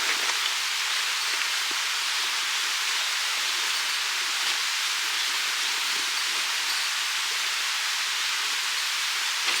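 Steady, even hissing noise without any pitch.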